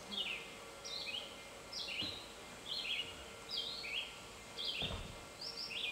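A bird calls over and over, about once a second, each call a quick pair of high notes sliding downward, over a faint steady outdoor background. A soft low thump comes near the end.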